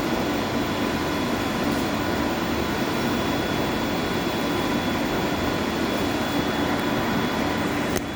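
Steady machinery noise of boiler-house equipment running, an even roar with a faint steady hum in it. It drops abruptly near the end.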